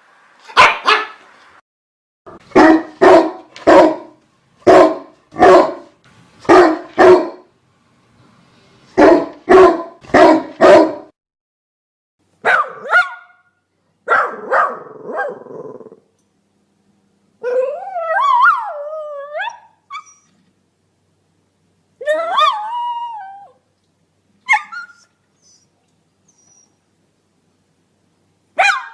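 Dog barking repeatedly, mostly in quick double barks, for the first half. It then gives two long howling calls that waver up and down in pitch, with a few single barks between them and at the end.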